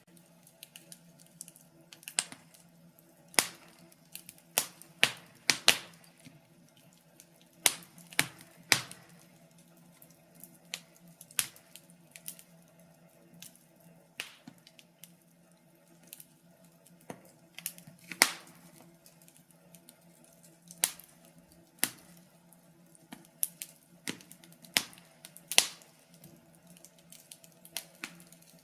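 Wood fire crackling: irregular sharp pops and snaps, some much louder than others, over a faint steady hum.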